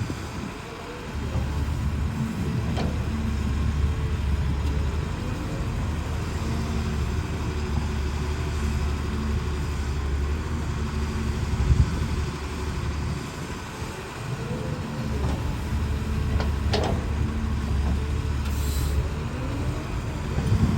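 Excavator's diesel engine working under load, its drone swelling and easing in spells of a few seconds, with a couple of sharp knocks partway through.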